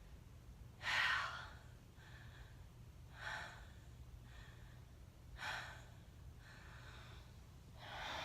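A woman breathing hard after a set of push-ups: four heavy breaths, one roughly every two to two and a half seconds, over a steady low hum.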